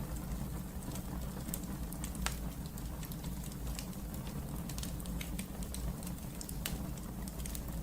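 Wood fire burning in a fireplace: a steady low rumble of the flames with irregular sharp crackles and pops, a louder pop about two seconds in and another near the end.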